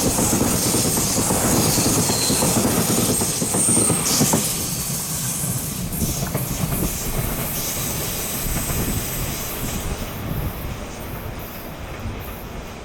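Electric multiple-unit passenger train running on the rails, with wheels clattering and a few brief high wheel squeals in the first few seconds. The sound then fades steadily as the train moves away.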